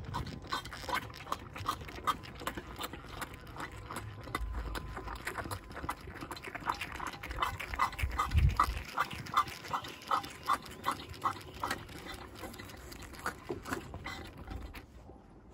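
An animal giving a long run of short, repeated calls, about two or three a second, with scattered clicks throughout and a low bump about eight seconds in.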